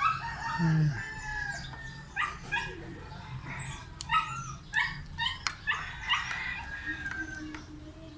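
Rooster crowing, a long drawn-out call in the first two seconds and another later, with a run of short sharp sounds in between.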